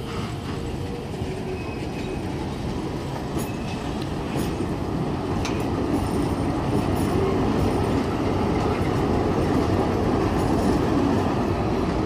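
Heritage passenger carriages rolling past on the rails with wheel clatter and a little wheel squeal, then the diesel locomotive Alco 4490 passing close, the rumble growing louder from about halfway through.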